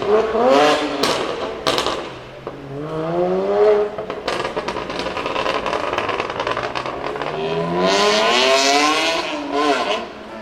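BMW car engine revving hard: a few quick blips and sharp exhaust cracks at first, then two long pulls rising in pitch, the second climbing highest near the end before it lets off.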